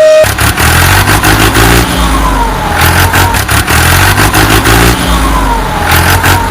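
Truck engine running with a low rumble, a falling whine sounding twice. It starts suddenly just after a steady horn-like tone breaks off, and it cuts off abruptly near the end.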